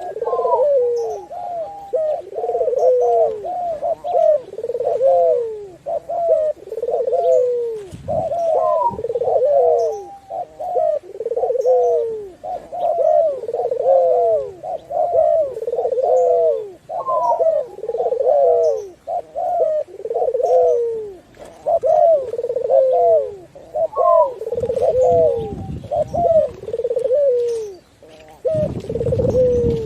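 Several doves cooing, one phrase overlapping the next without a break, with a brief low rumble near the end.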